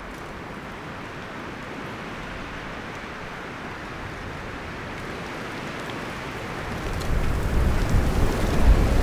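Wind blowing through forest trees, leaves and branches rustling in a steady hiss that slowly builds. About seven seconds in a strong gust arrives, louder, with a low rumble.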